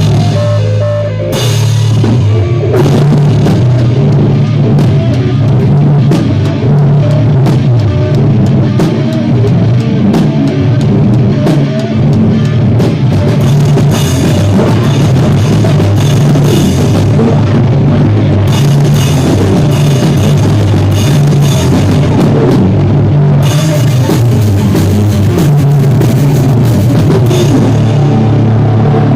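Live rock band playing at rehearsal: drum kit with cymbals over heavy bass, loud and distorted, with a short drop in level about a second in.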